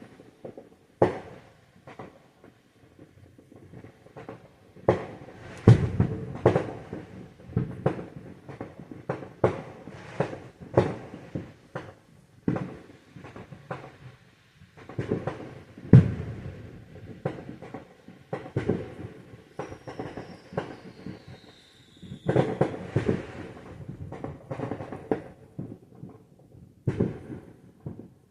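Fireworks going off: an irregular run of sharp bangs and crackles, the loudest about six seconds in and again around sixteen seconds. Near twenty seconds a falling whistle leads into a cluster of bangs.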